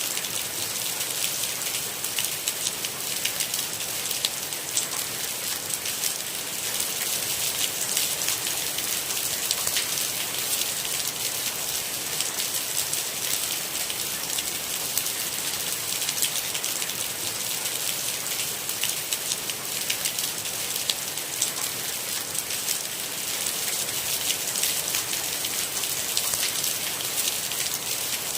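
Steady rain falling on a hard surface, a dense hiss thick with the ticks of individual drops, even throughout with no thunder.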